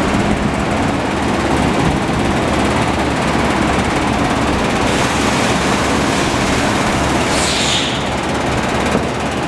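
2007 Yamaha YZF-R6's inline-four engine running steadily. There is a brief hiss about seven and a half seconds in.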